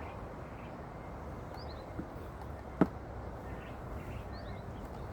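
A single sharp click just under three seconds in, with a fainter tap about a second before it, over a steady low background hiss and a few faint bird chirps.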